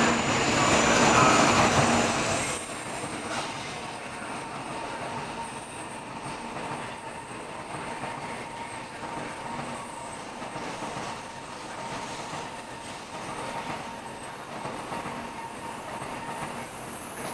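Shinkansen bullet train departing from the platform: loud rail and wheel noise for the first couple of seconds, which drops away sharply and settles into a steady, quieter rumble with a faint whine as the train moves off.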